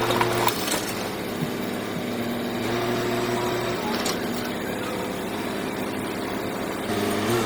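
Heavy diesel engine of earth-moving machinery running steadily, with a few sharp knocks.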